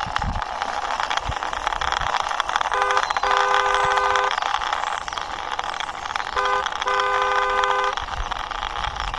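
Toy military tanker's wheels rolling under a hand, a steady rushing noise throughout. A horn sounds twice, each time a short toot and then a longer one lasting about a second.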